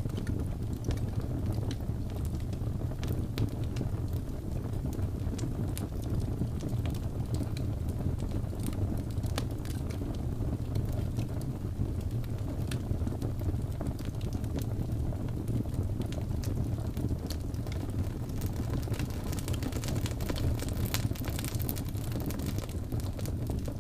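Wood fire burning in a fireplace: a steady low rumble of the flames, with frequent sharp crackles and pops that come thicker near the end.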